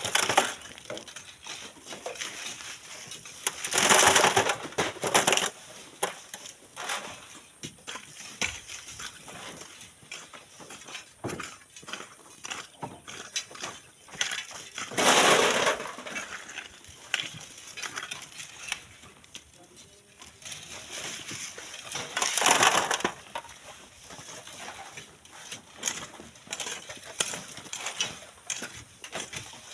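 Rushes of sand and gravel pouring and sliding, three loud ones each about a second long roughly ten seconds apart, with pebbles and small stones clicking and clattering in between.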